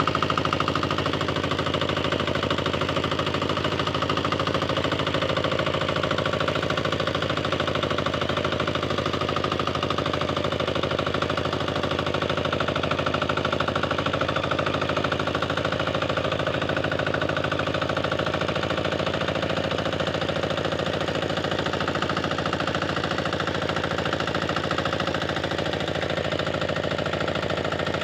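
Tractor engine running steadily at a constant speed, with a fast, even beat of firing strokes.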